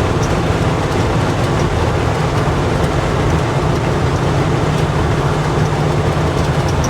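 1970 GMC K10 pickup cruising at highway speed, about 70 mph: steady road, tyre and wind noise over a low engine and exhaust drone.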